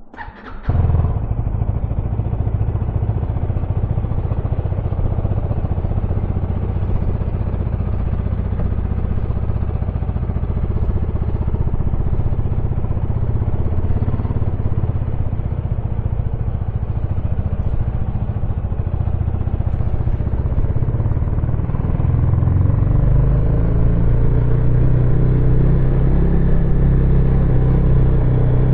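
A Husqvarna Svartpilen 250's single-cylinder engine fires up at the very start, then runs steadily. About two-thirds of the way through it becomes a little louder and deeper.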